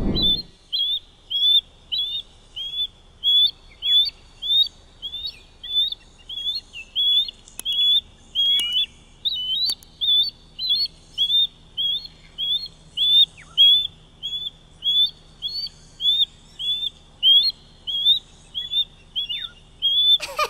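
Osprey calling: a long, steady series of short, high whistled notes, about two a second.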